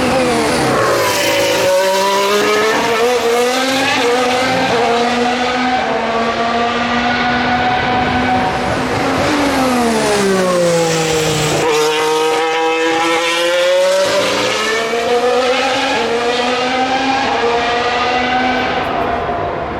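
2019 Formula 1 cars' 1.6-litre V6 turbo-hybrid engines braking into a chicane, the engine pitch dropping as they downshift, then climbing again as they accelerate out. This happens twice, about 1 second in and again about 10 seconds in.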